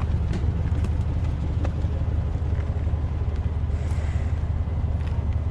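Truck engine idling with a steady low rumble, a few faint clicks over it.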